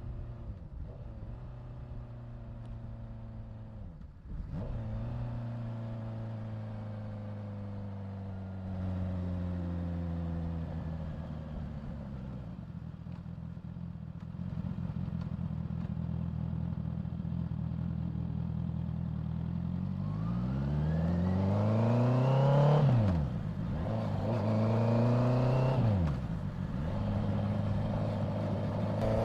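Honda CBR650F's inline-four engine under way at a steady cruise with small changes in pitch. About two-thirds through it revs up hard twice, each rising run cut by a sudden drop in pitch as it shifts up a gear.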